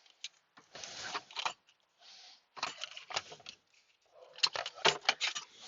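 Irregular sharp clicks and short rattles of a fuse box being handled and fitted back into its mount, with a quick run of clicks about four to five seconds in.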